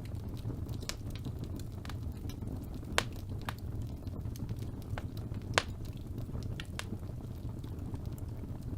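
Fire burning in a fireplace: a steady low rumble with scattered small crackles and two sharper pops, about three seconds and five and a half seconds in.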